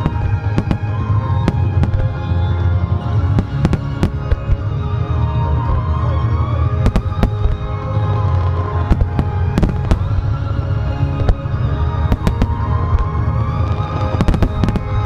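Super star mine fireworks display: dozens of aerial shells bursting with sharp bangs in quick succession, over loud music with a steady bass line.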